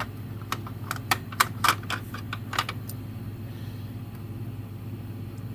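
Light clicks and taps of a die-cast metal figure and model toy truck being handled and set against each other, a quick irregular string of them in the first two and a half seconds, over a steady low hum.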